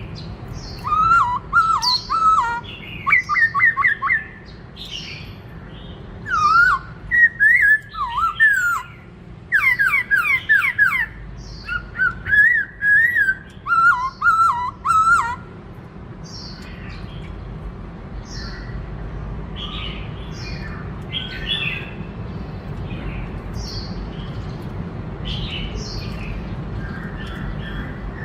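Black-throated laughingthrush singing: loud, rapid phrases of clear whistled notes, repeated in bursts for about the first half, then only fainter scattered calls over a steady low hum.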